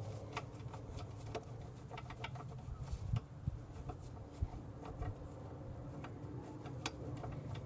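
Scattered light clicks and taps of hand tools on metal, working a stuck fastener on a turbocharger, over a faint steady low hum.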